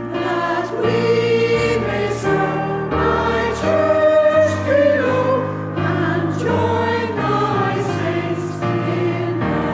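Choir singing with instrumental accompaniment: several voices holding and moving between notes over steady sustained bass notes.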